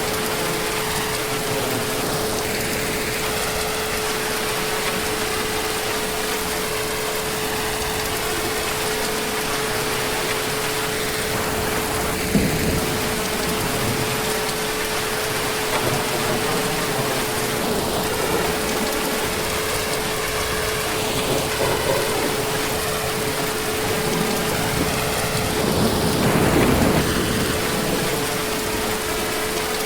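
Heavy, steady rain, with a low rumble of distant thunder swelling and fading near the end and a brief louder crack about twelve seconds in. A faint steady hum tone runs under the rain.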